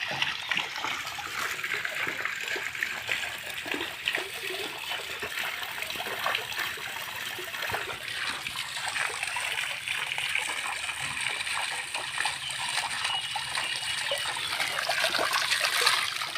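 Water from a homemade fountain driven by a 12 V DC motor pump, splashing and trickling steadily.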